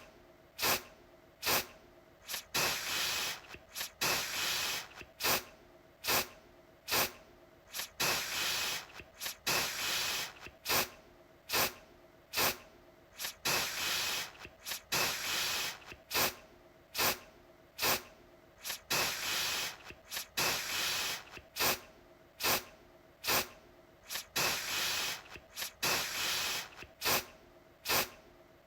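Aerosol deodorant can spraying in repeated bursts of hiss, short quick puffs alternating with longer sprays of about half a second, over and over.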